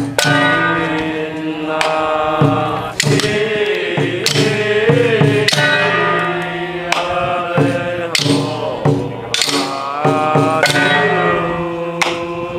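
Taoist ritual music: a sustained melodic line that bends in pitch, over percussion strikes roughly every second and a half.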